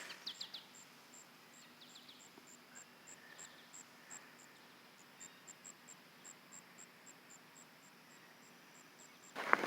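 An insect chirping steadily outdoors: short, high pulses about three a second, with a few faint bird chirps in the first two seconds. A loud rustle breaks in just before the end.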